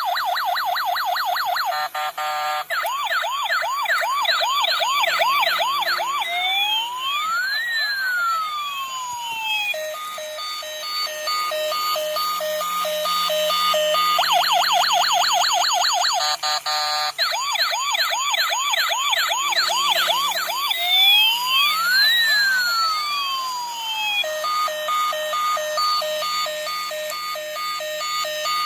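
Electronic multi-tone siren cycling through its patterns: rapid repeated yelping sweeps, then a slow wail that rises and falls, then a steady beeping, with the cycle coming round again about halfway through.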